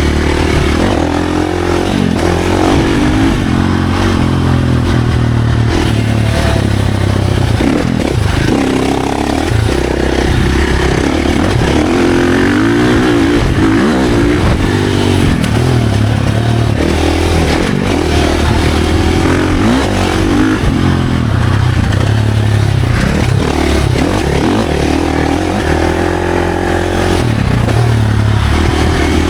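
Off-road dirt bike engine running hard, its pitch rising and falling again and again as the rider accelerates and backs off.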